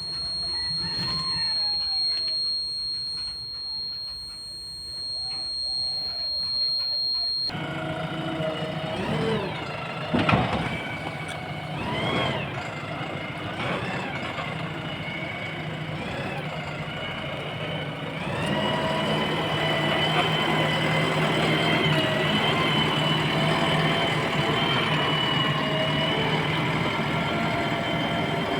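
Heavy diesel engines of a tractor and backhoe loader working. The engine revs rise and fall several times, then it runs louder and steadier in the later part.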